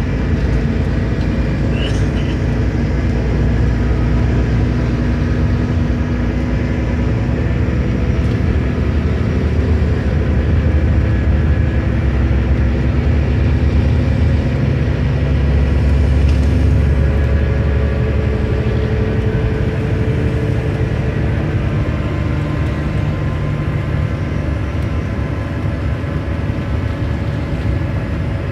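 Volvo B9R bus's rear-mounted diesel engine running under way, heard inside the cabin from the back row: a steady low drone with engine tones whose pitch shifts a little, loudest a little past halfway.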